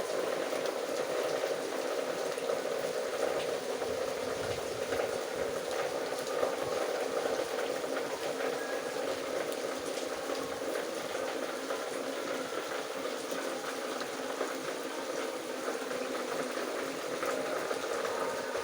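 Steady rain falling: a dense, even hiss of drops with scattered individual taps.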